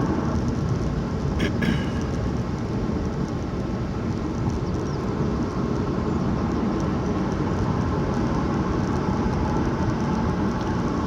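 Steady road and engine noise of a car being driven, heard from inside the cabin, with a brief click about a second and a half in.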